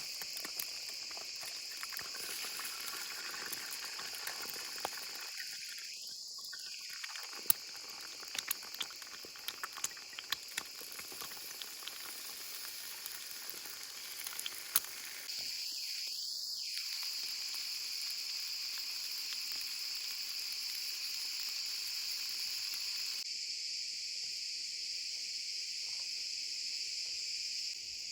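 Steady high-pitched chorus of insects, typical of crickets, with a short scatter of sharp clicks a few seconds in.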